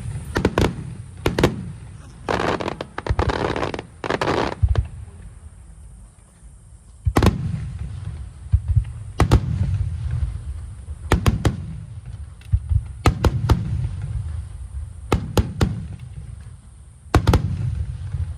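Aerial fireworks bursting overhead: a string of sharp booms, each trailing off in a low rumble, with a dense crackling stretch a couple of seconds in.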